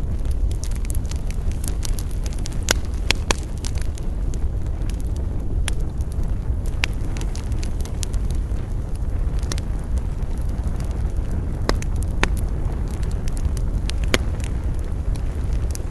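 Wood bonfire crackling, with irregular sharp pops and snaps scattered over a steady low rumble.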